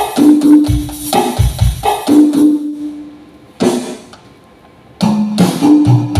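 Roland SPD-11 electronic percussion pad played through a stage sound system: drum-kit hits in a rhythmic pattern with short held pitched notes. Playing drops to a single hit in the middle and starts again about five seconds in.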